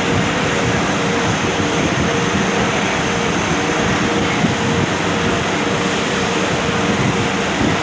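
Automatic drilling machine running: a steady, loud mechanical noise with a constant hum.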